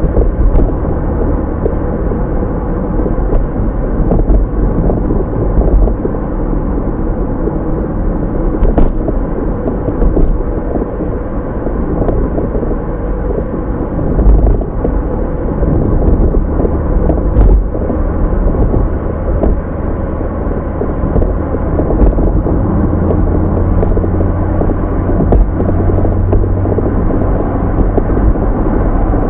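Steady low rumble of tyre and engine noise from a car driving along, heard from inside the cabin through a dashcam microphone, with a few faint clicks.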